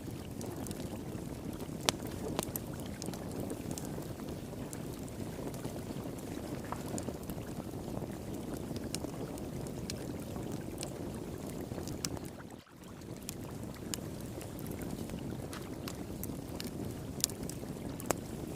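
Flowing water rushing steadily, with a wood fire crackling in scattered sharp pops over it. The sound dips briefly about two-thirds of the way through.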